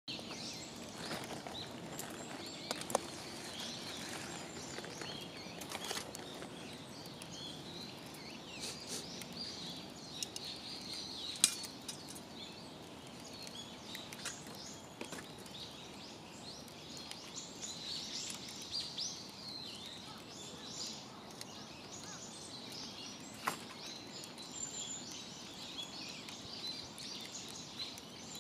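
Small birds chirping and twittering continually over a steady outdoor background hiss, with a few sharp isolated clicks, the loudest about 11 seconds in.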